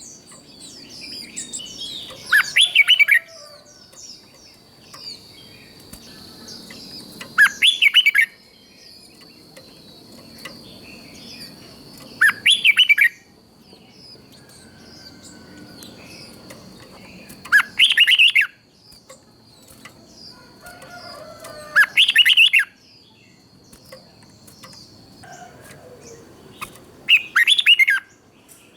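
Red-whiskered bulbul singing: six loud, short phrases of quick whistled notes, about one every five seconds, with softer chirps in between. A faint steady high whine runs beneath until near the end.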